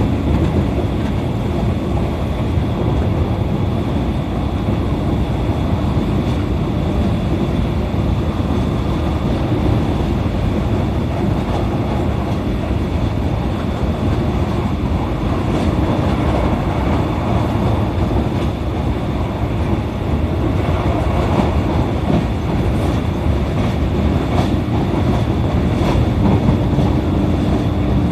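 E531 series electric multiple unit train running at speed, heard from inside the carriage: a steady, loud rumble of wheels on rail with occasional faint clicks from rail joints.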